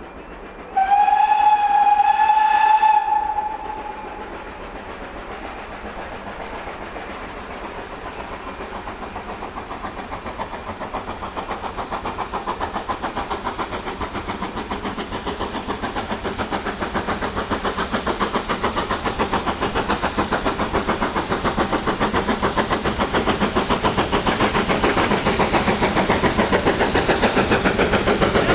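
Steam whistle of GWR Manor-class locomotive 7828 'Odney Manor', one long blast of a single pitch for about three seconds. The locomotive is then heard working toward the microphone, its rapid, even beats growing steadily louder.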